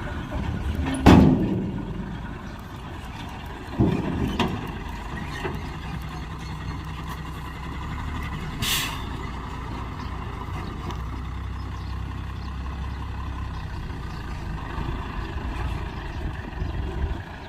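Heavy diesel dump truck engine running steadily, with two loud clanks in the first four seconds and a short air hiss about nine seconds in.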